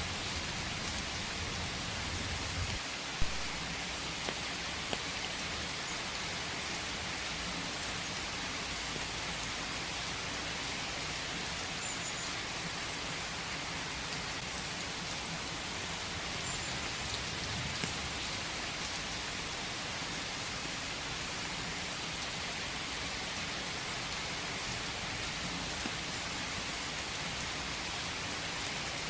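Steady rain falling in a forest, an even hiss of drops with a few louder single drop hits, the sharpest about three seconds in.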